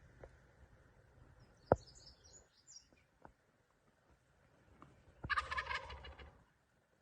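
A wild turkey tom gobbling once, a rattling call just over a second long, about five seconds in. Earlier there is a single sharp click and a few high bird chirps.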